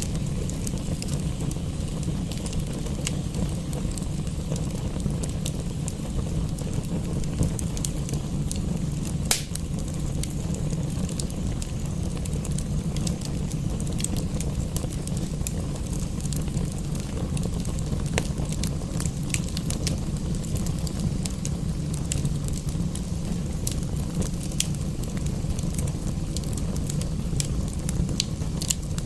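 Wood fire crackling, with scattered sharp pops, one louder pop about nine seconds in, over a steady low rumble and hiss.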